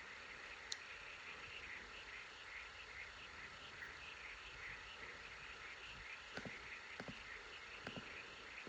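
Faint, steady chorus of rapid chirping, with a few soft clicks about six to eight seconds in.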